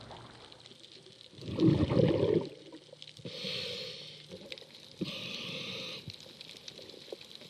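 Scuba diver breathing underwater: a loud rush of exhaled bubbles about a second and a half in, then two shorter high hisses from the regulator.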